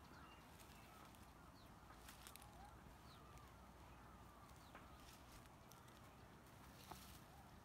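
Near silence, with faint scattered bird chirps and one soft knock about seven seconds in.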